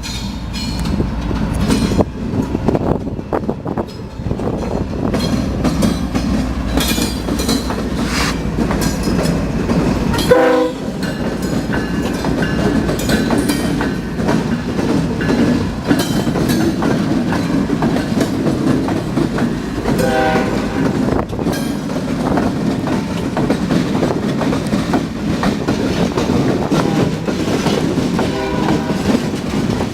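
A train rolling past with a steady low rumble and clicking wheel clatter. Short stacked tones sound briefly about ten seconds in and again about twenty seconds in.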